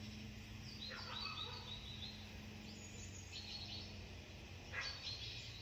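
Wild birds calling: a few short bursts of high chirping notes, about a second in, again around the middle and near the end, over a faint steady low hum.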